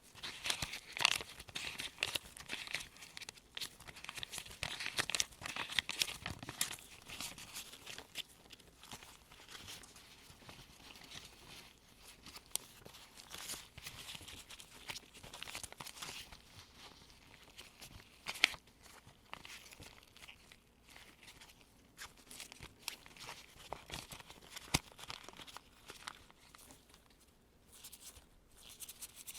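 US one-dollar bills turned one by one like pages by gloved fingers: crisp paper rustling and flicking. The flicks are busy for the first several seconds, then sparser, with an occasional sharper snap.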